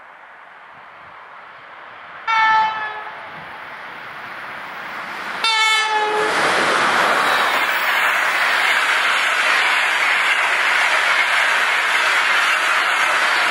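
EP20 dual-system electric locomotive sounding its horn twice as it approaches, a short blast then a longer one. It is followed by the loud, steady rushing noise of the high-speed passenger train passing close by at speed, wheels on rails.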